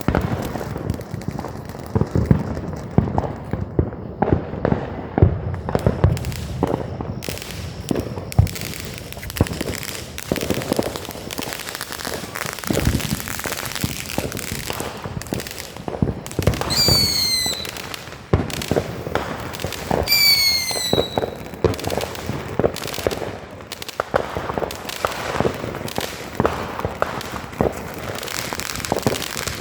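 Fireworks going off: a dense, continuous run of bangs, pops and crackling. A little past the middle, two short whistles fall in pitch, about three seconds apart.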